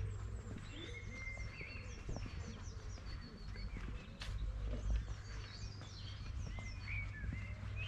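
Small birds chirping and singing, many short rising and falling calls, over a steady low rumble, with one sharp click about four seconds in.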